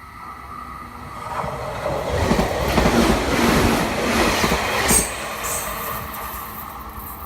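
Meitetsu electric train passing close by, its sound building to a peak and then fading, with wheels rumbling and clacking on the track and a brief high squeal about five seconds in.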